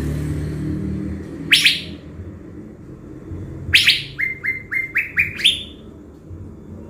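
Caged thanh lam decoy bird calling: a sharp, high call sweeping downward about a second and a half in, then another followed by a quick run of about six short notes, each higher than the last. It is a decoy bird in full form.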